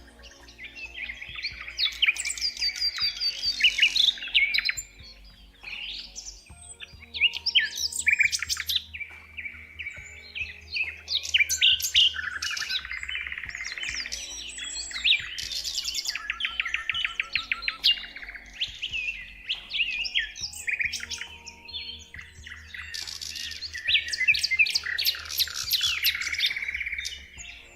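Songbirds singing in a dense, overlapping chorus of trills, chirps and quickly repeated notes, with a couple of short lulls, over a faint low steady hum.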